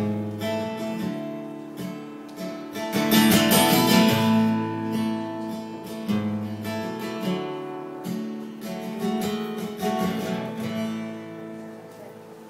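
Guitar playing the closing strummed chords of a song after the last sung line, dying away near the end.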